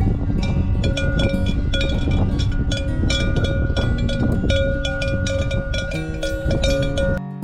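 Metallic bells clanking irregularly, several strikes a second with a ringing tone, typical of cowbells on grazing cows, with music underneath; the clanking cuts off abruptly near the end.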